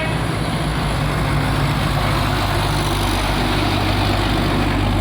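Heavy truck's diesel engine running steadily under load on an uphill climb, a low, even hum with road noise.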